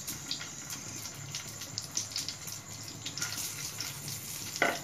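Idlis frying in hot ghee in a frying pan: a steady sizzle with scattered small crackles, and a short knock near the end.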